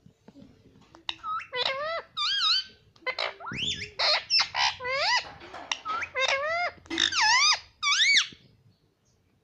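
Rose-ringed parakeet giving a rapid run of high, squeaky calls and chatter, many swooping up and down in pitch, from about a second in until shortly before the end.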